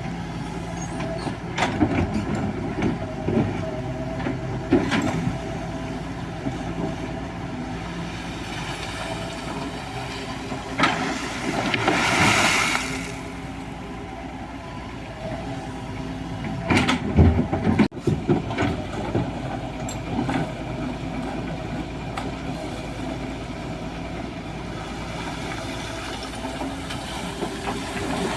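Excavator's diesel engine running steadily while it digs, with scattered knocks and clatters of gravel and stones, the loudest about seventeen seconds in. A hissing rush comes about twelve seconds in.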